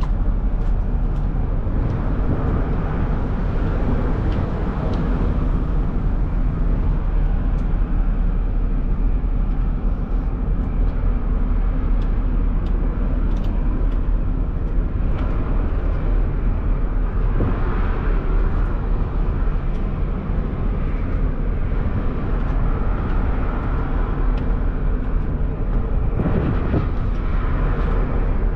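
Steady low rumble of a running vehicle or engine, with no distinct events.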